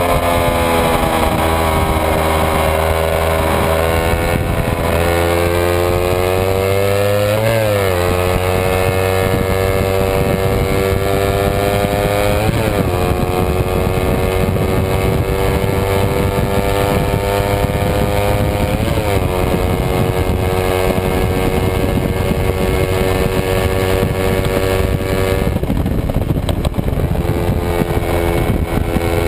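Kawasaki Ninja 250 parallel-twin race engine heard from on board at high revs. The pitch climbs through the gears with three quick upshifts, each a short break and drop in pitch, then falls near the end as the throttle is rolled off.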